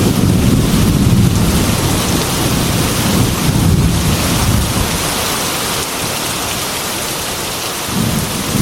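Heavy rain falling steadily on a metal roof, with low thunder rumbles that swell and fade under it: once at the start, again about three to four seconds in, and once more near the end.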